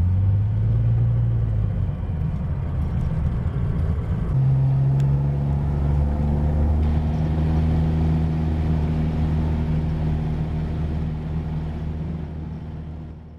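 Cessna 172's piston engine and propeller droning steadily, stepping up in pitch about four seconds in. The drone fades out near the end.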